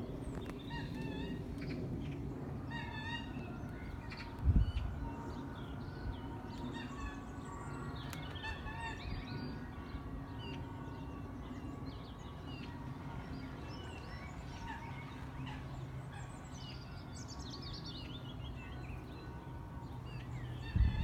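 Birds calling, among them an odd, gobbling, repeated call from an unseen bird, over a low steady hum. A loud thump about four and a half seconds in.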